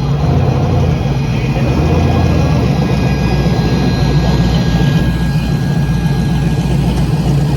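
Car engine running steadily with a low drone.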